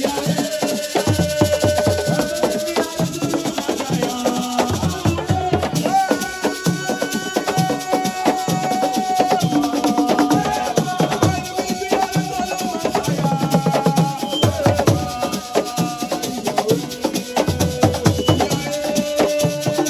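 Assiko music: fast, dense rhythmic percussion with shakers and drums, with long held melody notes over it.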